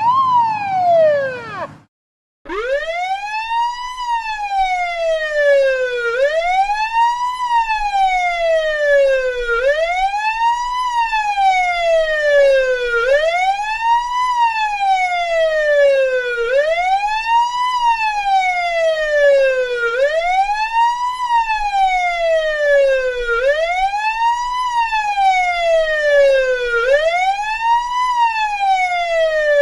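Police siren in a wail, its pitch rising quickly and falling slowly about every three and a half seconds. It opens with a short falling tone that cuts off, and after a brief gap the wail starts.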